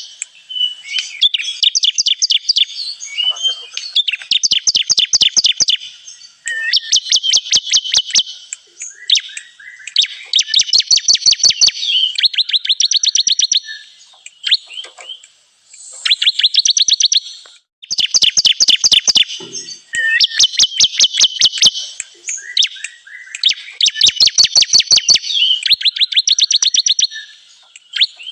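Bar-winged prinia (ciblek) song, the lure call used to draw in wild ciblek: loud, high phrases of rapid chipping notes, each lasting one to two seconds and repeated over and over with short pauses between them.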